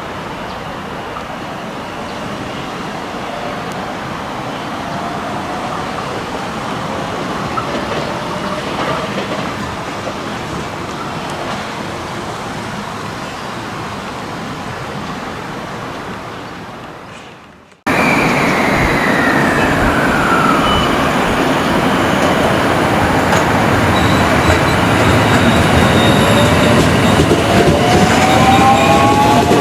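Train running on the rails through a station, a steady rumbling noise that fades away. After an abrupt cut about 18 s in, a louder train runs close by: a tone falls just after the cut, and several whining tones rise near the end.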